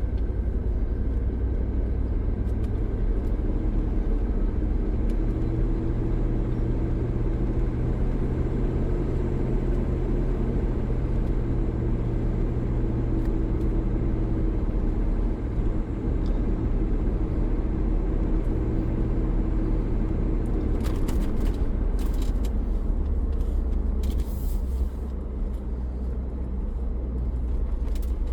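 Land Rover Discovery 2's V8 engine running, heard from inside the cabin, with a steady hum whose pitch drops a little about 23 seconds in. A few short clicks and rattles come just before the drop.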